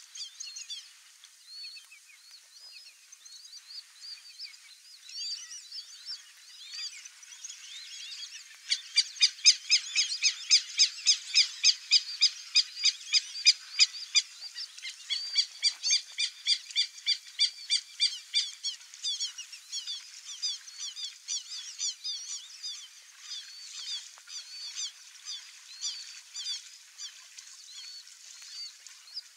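Birds calling in a wetland: scattered high chirps, then about a third of the way in a loud run of evenly repeated high call notes, two or three a second, that fades to softer repeated calls after the middle.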